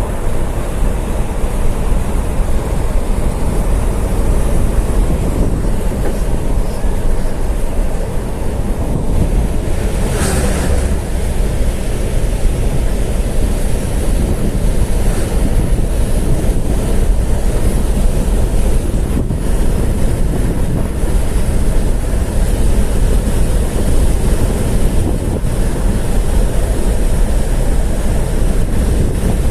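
Steady rumble of a moving road vehicle, heard from inside, with wind buffeting the microphone and a brief louder rush about ten seconds in.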